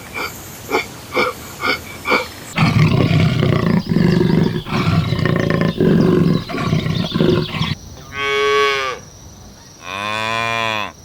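Cattle mooing: two drawn-out moos near the end. They follow a loud, rough stretch of several seconds, which comes after a run of short calls about twice a second.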